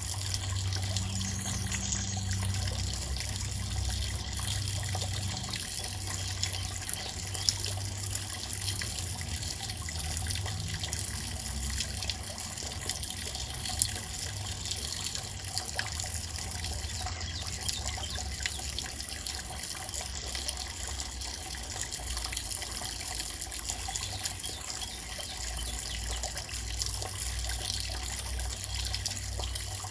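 Steady rain falling, an even hiss with now and then a sharper tick of a single drop striking, over a low rumble.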